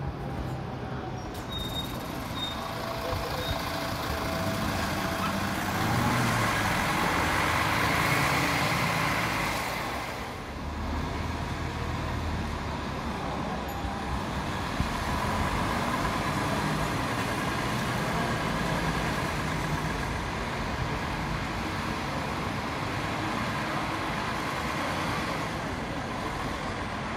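A train running, a steady rumble with a faint rising whine a few seconds in. It is loudest around eight seconds in, dips briefly near ten seconds, then holds level.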